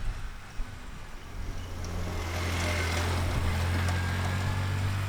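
Polaris Ranger XP side-by-side engine running steadily, growing louder about two seconds in. It runs after the brake pressure sensor bypass was re-done to cure the no-crank fault.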